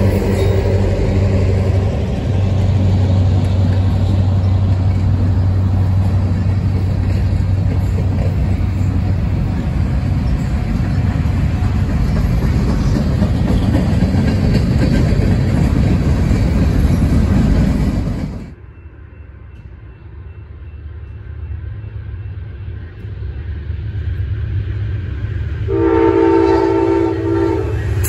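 Freight train cars rolling past, with a loud, steady rumble and wheel clatter and a low hum that fades after about nine seconds. The sound drops off suddenly after about eighteen seconds. Near the end, an Amtrak passenger locomotive's horn sounds a chord of several notes for about two seconds.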